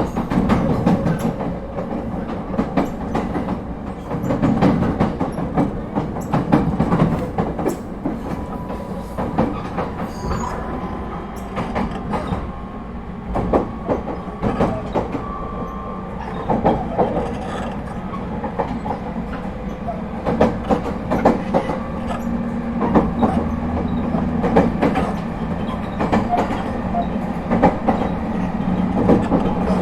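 Echigo TOKImeki Railway ET127-series electric train, refurbished with a Toyo IGBT-VVVF inverter, running along the line as heard inside the car: a steady rumble with wheels clicking over rail joints all the way through.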